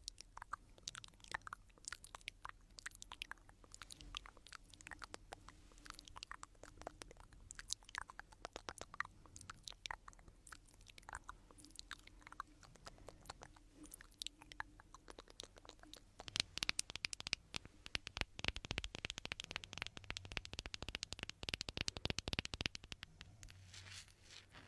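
Stones rubbed and clicked together close to the microphone, making small crunching clicks. The clicks are scattered at first, then come as a dense run of rapid grinding and clicking for about seven seconds near the end.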